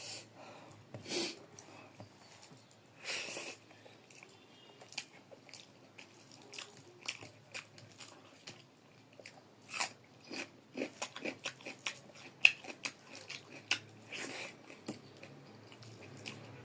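Close-up eating of rice and vegetable curry: chewing and mouth sounds with many short, sharp wet clicks, and a few longer noisy bursts.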